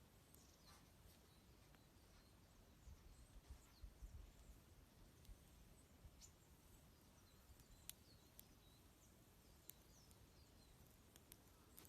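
Small songbirds giving faint, high, short chirping calls here and there, with a few sharp crackles from a wood campfire and a low rumble underneath.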